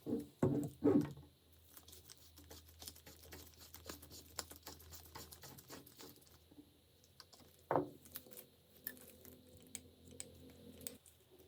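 Small-object handwork on a workbench: two sharp knocks in the first second and another about eight seconds in, with a run of quick, light clicks and ticks between them.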